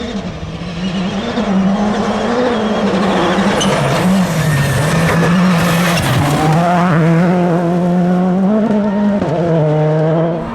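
Rally car engine running hard on a gravel stage, its pitch rising and falling with the revs over a hiss of tyre and gravel noise. It grows louder over the first couple of seconds.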